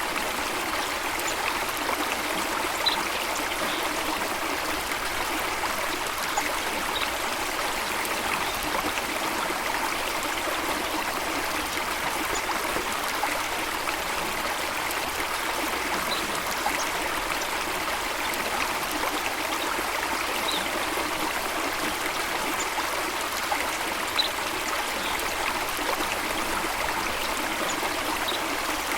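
Steady flowing stream water, an even rushing and trickling, with a few faint short high notes scattered through it.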